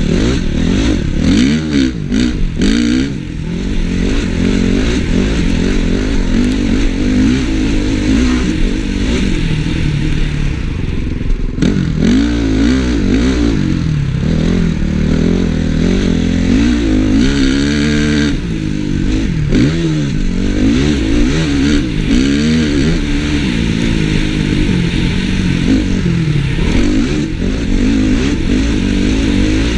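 Honda CRF450 single-cylinder four-stroke motocross engine being ridden hard, its pitch climbing and falling over and over as the throttle is opened and shut every second or two.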